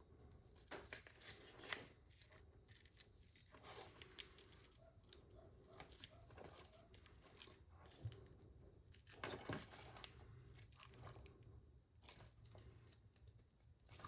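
Faint, scattered clicks and scrapes of small tools and parts being handled while working on an RC car's motor and pinion, with a cluster of sharper clicks about a second in and again about nine seconds in.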